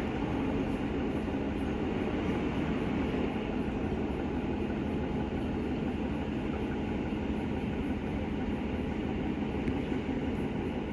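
Northern Class 150 diesel multiple unit running along the line: a steady engine hum over rail and wheel rumble.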